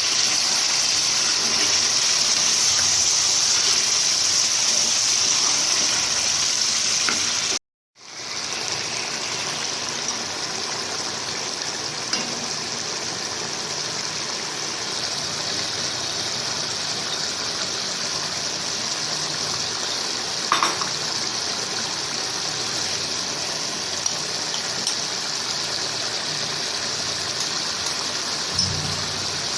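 Chicken karahi sizzling as it fries in the pan, a steady hiss. It cuts out briefly about eight seconds in, then carries on with a few faint clicks.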